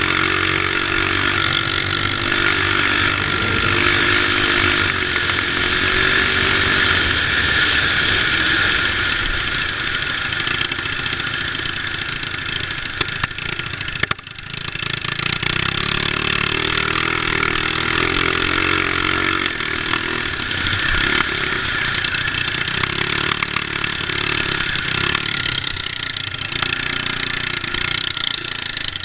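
Small mini bike engines running and revving, their pitch rising and falling, with a brief drop in level about halfway through.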